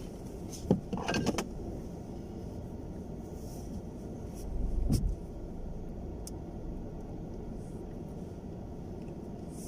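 Steady low rumble of a car driving, heard from inside the cabin, with a quick cluster of clicks about a second in and a dull thump about five seconds in.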